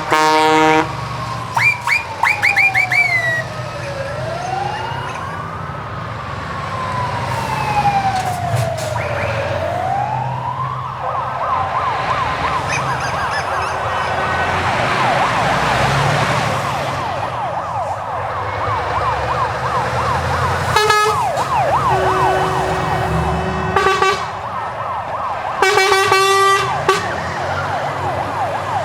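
A siren wailing slowly up and down, then switching at about eleven seconds to a fast yelp, over the low rumble of truck engines. Short multi-tone horn blasts sound at the start and again twice near the end.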